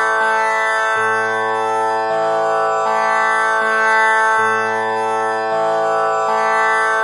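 Tanpura drone pitched in A (six kattai), its strings plucked one after another in a slow, steady, repeating cycle. The lowest string is re-plucked about every three and a half seconds, and the rich overtones ring on between plucks.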